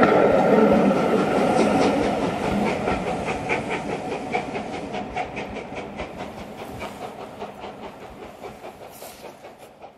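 Passing train going away along the line: its wheels click rhythmically over the rail joints while the running noise fades steadily until it is almost gone.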